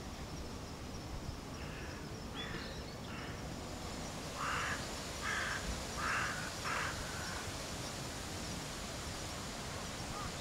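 A bird giving a series of short harsh calls: a faint group about two seconds in, then four louder calls roughly three-quarters of a second apart, over a steady outdoor background hiss.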